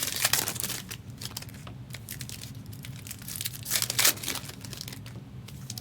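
Plastic trading-card packaging, packs or box wrap of Upper Deck Marvel Platinum, being torn open and crinkled in the hands, with irregular crackles, a louder flurry about four seconds in, and a faint steady low hum underneath.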